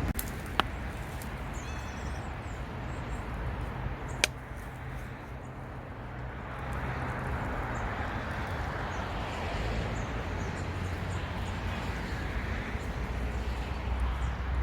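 Outdoor ambience with a steady low traffic rumble, broken by two sharp clicks, one about half a second in and one about four seconds in.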